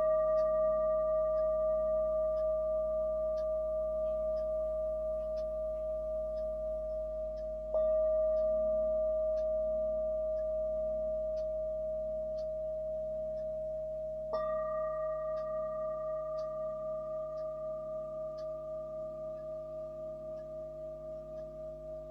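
Himalayan singing bowl struck three times, about seven seconds apart. Each strike gives a clear ringing tone with a higher overtone that slowly dies away with a steady wavering beat.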